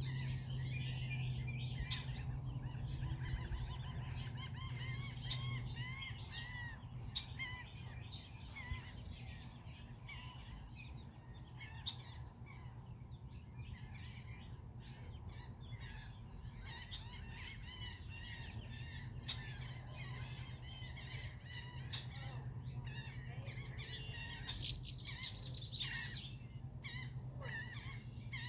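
A flock of red-winged blackbirds calling, many short chirps and whistles overlapping continuously. A steady low hum runs underneath.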